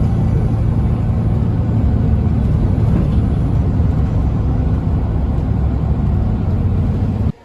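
Steady low rumble of a running vehicle, cut off abruptly near the end.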